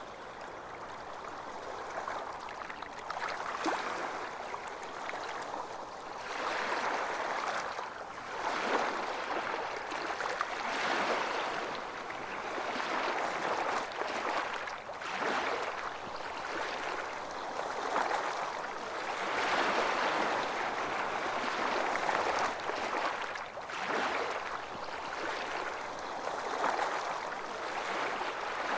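Waves washing onto a beach, the surf swelling and drawing back every few seconds in a steady hiss with little deep rumble.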